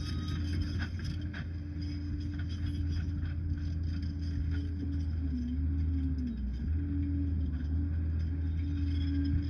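Liebherr PR 746 crawler dozer's diesel engine running steadily, its pitch dipping for about a second, some five to six seconds in, and coming back up. A couple of faint clanks about a second in.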